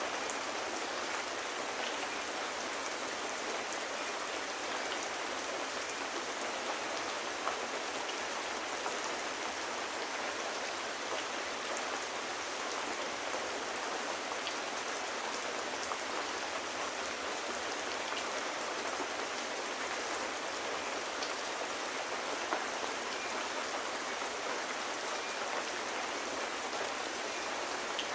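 Steady rain falling, an even hiss of drops with occasional faint ticks.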